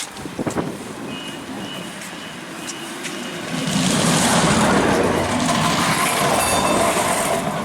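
A few short high beeps, then a heavy vehicle passes close by, growing loud about three and a half seconds in and staying loud.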